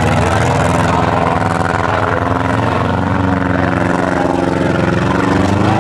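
Engines of several front-wheel-drive demolition derby cars running together in a loud, steady, dense drone as they drive around the arena.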